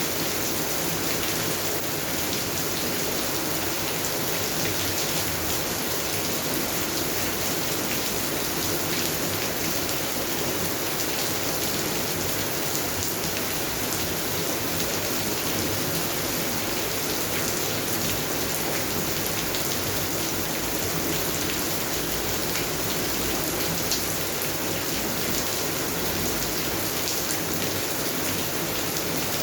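Steady rain falling on garden plants: an even hiss of rainfall with many individual drop ticks through it.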